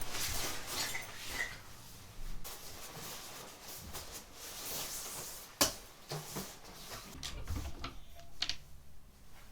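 Light household handling noises: scattered small clicks and knocks, with one sharper click about five and a half seconds in and a few more near the end.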